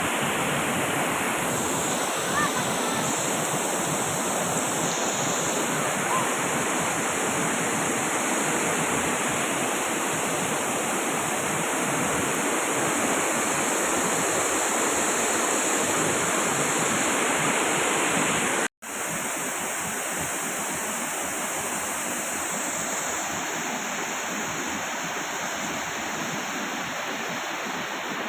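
Waterfall: a steady, dense rush of falling water, with a split-second break about two-thirds of the way through, after which it is slightly quieter.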